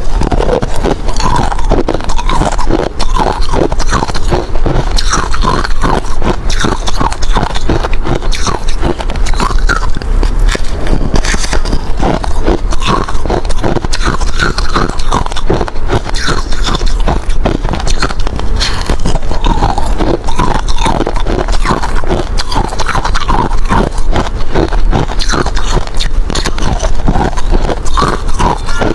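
Close-miked crunching of hard ice being bitten and chewed: rapid, continuous cracks and crunches without a break.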